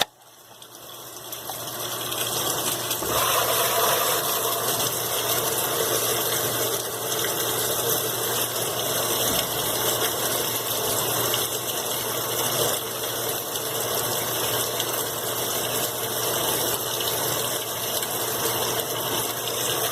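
Water rushing into a Brastemp BWQ 24 washing machine as it fills for the rinse, running through the fabric-softener dispenser and flushing the softener into the tub. It is a steady gushing with a constant low hum, building up from near quiet over the first two seconds.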